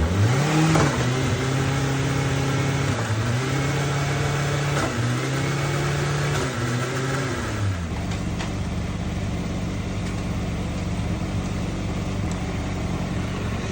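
2025 Kawasaki ZX-6R's 636 cc inline-four engine revved up and held, dipping briefly twice, then dropping back to a steady idle about eight seconds in.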